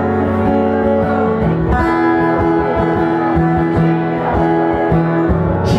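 Acoustic guitar strummed and plucked in a steady rhythm, playing the accompaniment of a Turkish folk song between sung lines.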